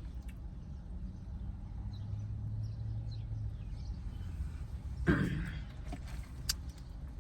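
Quiet chewing and mouth sounds of someone eating a bagel sandwich over a steady low hum. A brief louder noise comes about five seconds in, and a short click comes near the end.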